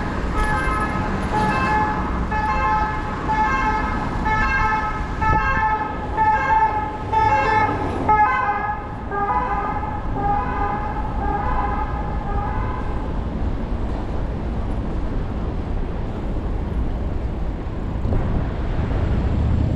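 Emergency-vehicle siren sounding in a fast repeating pattern. Its pitch drops about eight seconds in as it passes, and it fades out by about thirteen seconds, leaving steady road traffic.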